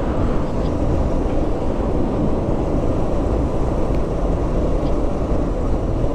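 Motorcycle on the move: a steady, heavy rumble of wind on the microphone mixed with engine and road noise.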